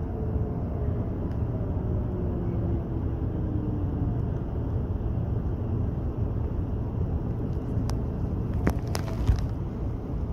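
Electric train running, heard from inside the carriage: a steady low rumble of the wheels on the rails. A faint motor whine falls in pitch over the first few seconds as the train slows, and a few sharp clicks come near the end.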